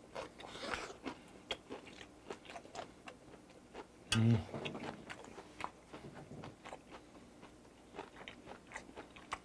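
Close-miked chewing of a mouthful of grilled pork and kimchi, with wet mouth clicks and crunches. A brief low hum comes from the closed mouth about four seconds in.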